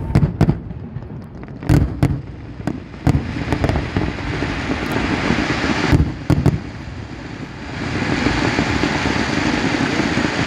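Fireworks display: a string of sharp bangs from bursting shells, about nine in the first six and a half seconds, over a rising hiss of ground fountains spraying sparks. The hiss becomes steady and louder from about eight seconds on.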